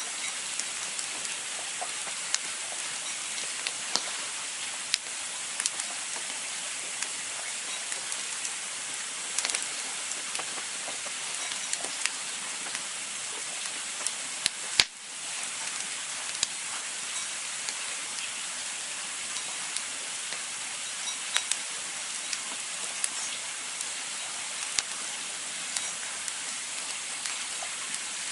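Campfire crackling: a steady hiss with scattered sharp pops, one louder pop about halfway through.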